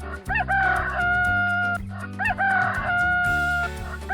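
Rooster crowing twice, cock-a-doodle-doo, each crow about a second and a half long, over light background music.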